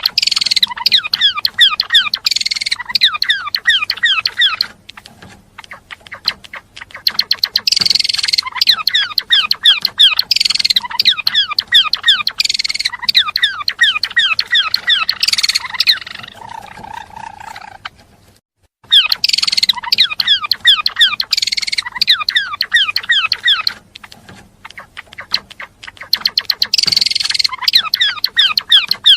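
Gelatik belong songbird singing in fast, chattering bouts made of rapid downward-sweeping chirps, several a second. Four bouts, each several seconds long, are separated by short quieter pauses.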